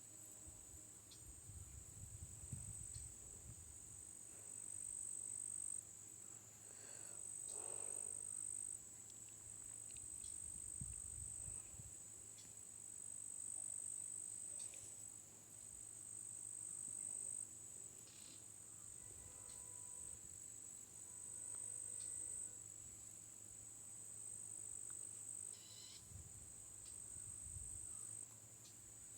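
Chorus of insects trilling, a steady high-pitched buzz that swells and eases every few seconds, with a few brief low rumbles.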